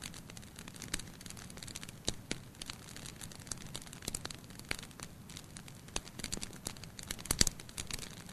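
Wood fire burning in a fireplace, crackling with irregular sharp pops over a low steady hiss; a cluster of louder pops comes about seven seconds in.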